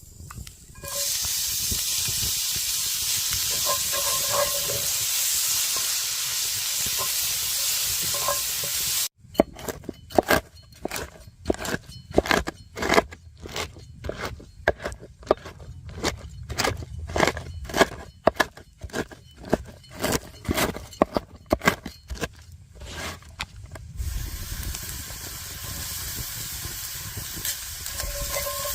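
Food sizzling and frying in a hot pan, a steady hiss that cuts off abruptly after about nine seconds. A long run of sharp, irregular knocks follows, a few a second, then the frying hiss returns more quietly near the end.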